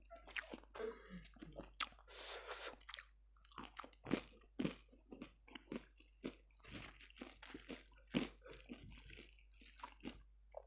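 Close-miked chewing and crunching of crispy fried chicken (ayam geprek), with irregular crackly bites and wet mouth sounds.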